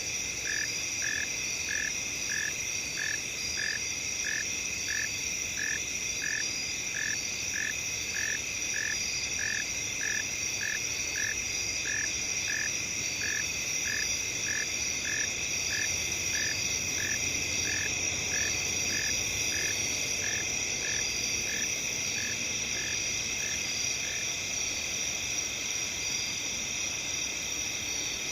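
Night field ambience: a steady high chorus of crickets and other insects. Over it, a single call repeats about twice a second and stops near the end.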